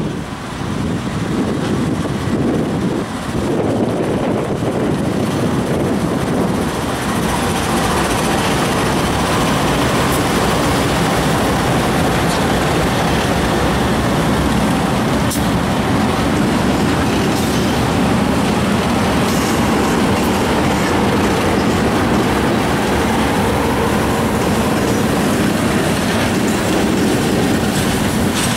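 Norfolk Southern freight train passing at close range. Its diesel locomotives rumble by, growing louder over the first few seconds, and then the freight cars' wheels run steadily over the rails with a clickety-clack.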